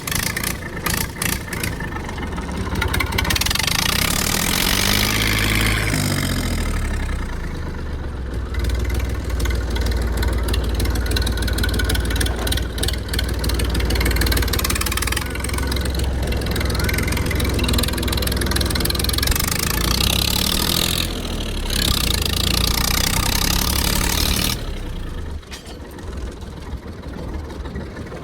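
Tractor diesel engine running, rising in speed about five seconds in, then running steadily; the sound drops back and gets quieter near the end.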